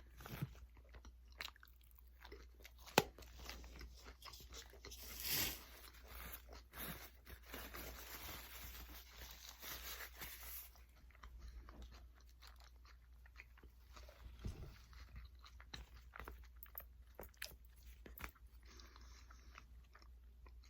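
A person chewing and crunching food close to the microphone, with scattered small clicks and one sharp click about three seconds in. A denser stretch of crunching noise runs from about five to eleven seconds in.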